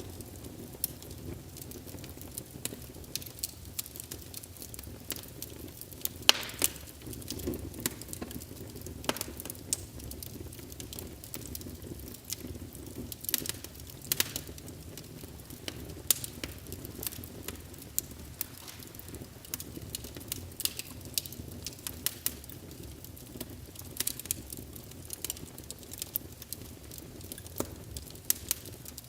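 Wood fire burning in a fireplace, crackling with frequent sharp pops over a low steady rumble of the flames, a louder pop about six seconds in.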